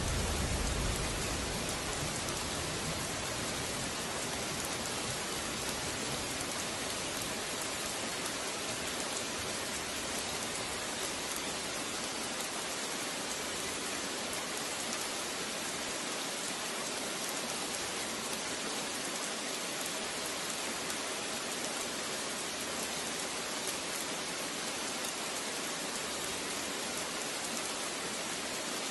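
Steady, even rain hiss with no change in strength. A low rumble fades away in the first second.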